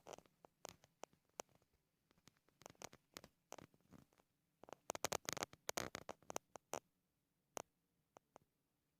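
Faint scattered clicks and scratchy rustles, most of them in a busy stretch of about two seconds midway, from a kitten moving about.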